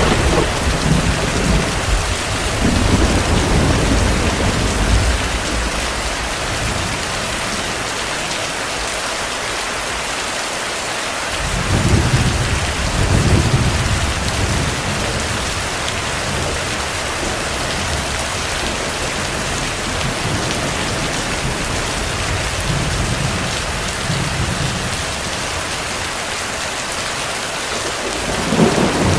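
Steady heavy rain with distant thunder. Low rumbles of thunder swell and fade over the first few seconds, again about twelve seconds in, and briefly near the end.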